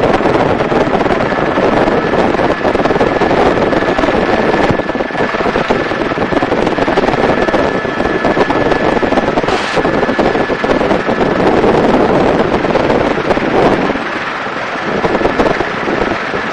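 Helicopter in flight heard from inside the cabin: steady rotor and engine noise with wind buffeting the microphone, and a faint steady high whine through the middle.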